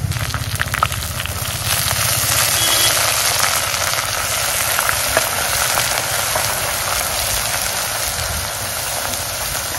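Garlic and coriander frying in a biryani pot, a steady sizzle with scattered crackles in the first couple of seconds.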